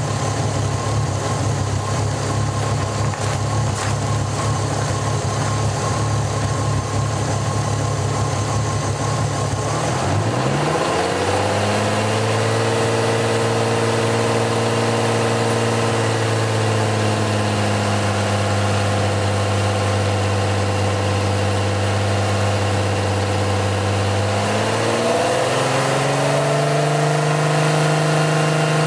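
Volkswagen 24-valve VR6 engine in a Mk3 Golf, heard from the open engine bay. It idles steadily for about ten seconds, then the revs rise smoothly and are held at a raised speed. Near the end they step up again and hold at a higher speed.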